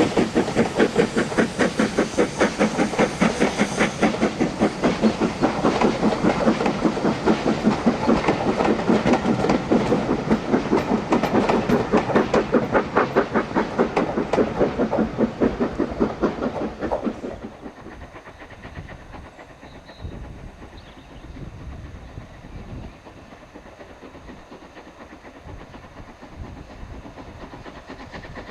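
A pair of steam locomotives double-heading a train up a steep 1 in 49 gradient, working hard with loud, rapid exhaust beats, about four a second. About two-thirds of the way through the beats fall away sharply, leaving a quieter rumble of the train.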